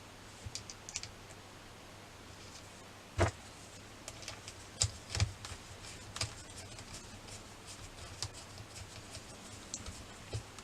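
Scattered light clicks and taps of a wheel being fitted to a radio-controlled model car and tightened with a small spanner, with one louder knock about three seconds in.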